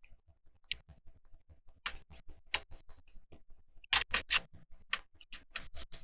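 Plastic Lego bricks clicking and clattering as pieces are picked up and handled: scattered sharp clicks, with a quick run of them about four seconds in.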